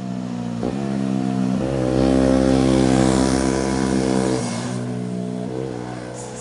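Motorcycle engine accelerating as it passes, with two quick gear shifts in the first two seconds, then a held high-revving note that drops away about four and a half seconds in, with one more short rev near the end.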